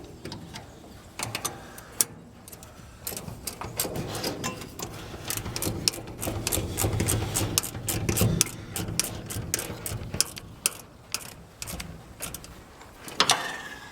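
Hand tools at work on the truck: a long run of quick metallic clicks and rattles, densest through the middle, over a low hum.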